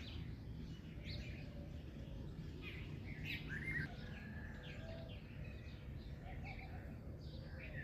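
Several songbirds chirping and singing in short, separate calls and trills, over a steady low background rumble.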